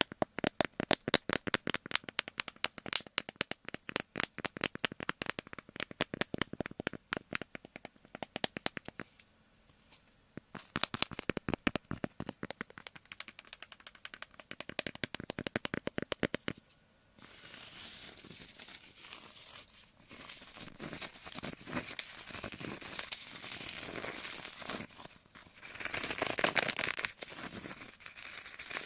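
ASMR ear cleaning: an ear pick scraping in the ear in rapid, rhythmic strokes, in two long runs with a short pause between. About two thirds of the way through it changes to a continuous crinkly rustling scrub, which grows louder near the end.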